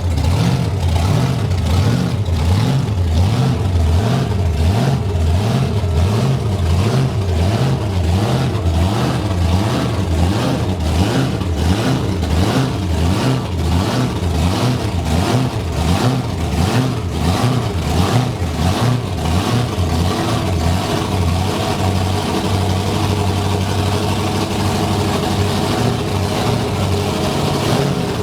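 Large vehicle engine running loudly, pulsing and rising and falling in pitch, then settling to a steadier idle about twenty seconds in.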